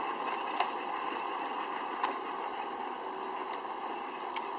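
Battery-powered ride-on toy tractor driving: a steady whirr from its 12-volt electric motor and gearbox with its plastic wheels rolling over the ground, and a couple of faint clicks.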